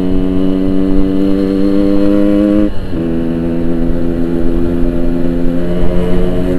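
Yamaha RX-King 135cc two-stroke single-cylinder motorcycle with a Boban aftermarket exhaust, running at steady revs while riding. The revs dip briefly near the middle, then hold steady again at a slightly lower pitch.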